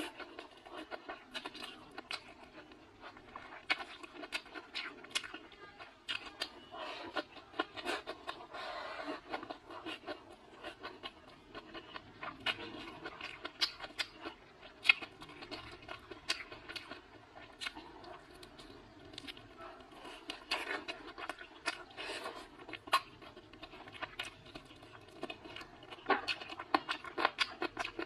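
Close-up mouth sounds of someone chewing spicy chicken wings: wet smacks and many sharp, irregular clicks, with a few louder clicks near the end.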